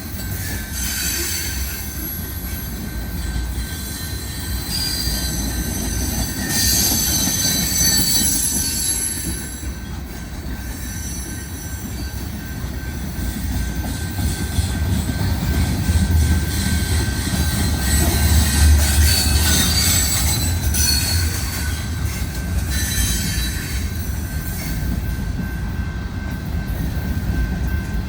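Freight train cars rolling past with a steady low rumble, and high-pitched wheel flange squeal that comes and goes in several stretches.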